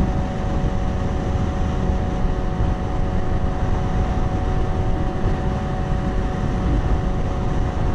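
Wind rushing over a helmet-mounted microphone, with a Yamaha R6's inline-four engine running at a steady highway cruise, its pitch unchanging.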